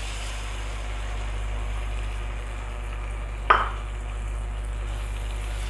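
Masala frying in oil in a steel kadai, sizzling steadily as cashew-almond paste is poured in. One short knock about three and a half seconds in.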